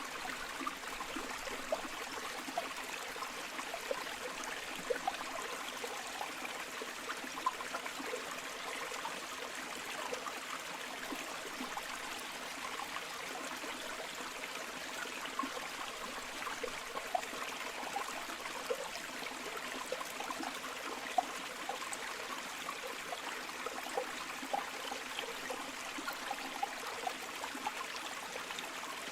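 Shallow river or stream flowing steadily over stones, a continuous rush of water with small bubbling splashes and gurgles throughout.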